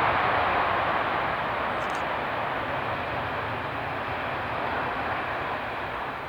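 Jet noise from the Airbus A380-861's four Engine Alliance GP7200 turbofans as the airliner rolls out after landing: a steady rushing sound that fades gradually.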